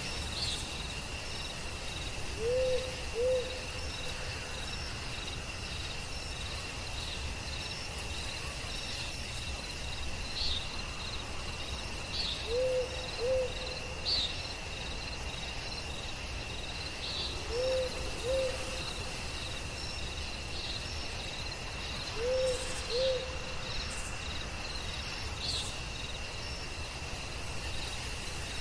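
Night forest ambience: crickets trilling steadily while an owl hoots in two-note pairs, four times about five seconds apart, with short high chirps scattered throughout.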